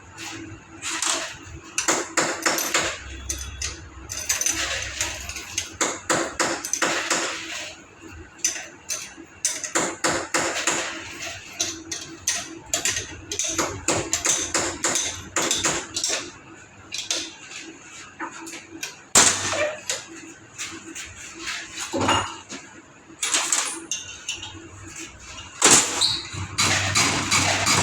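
Irregular clatter of knocks and short noisy bursts from hand work on metal parts, over a faint steady hum.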